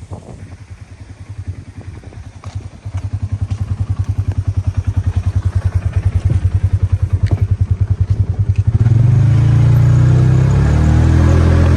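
A vehicle engine running with an even, fast low pulse that grows louder over several seconds. About nine seconds in, a louder, steady low drone takes over.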